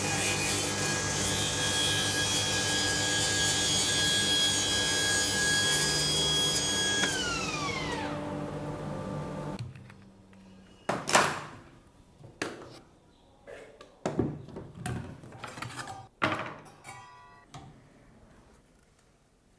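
A power tool's electric motor running at steady speed with a high whine, then switched off about seven seconds in, its pitch falling as it spins down over about two seconds. After it stops come several sharp knocks and clicks of handling.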